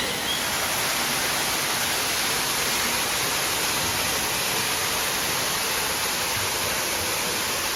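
Steady rush of falling water, an even hiss with no break or change.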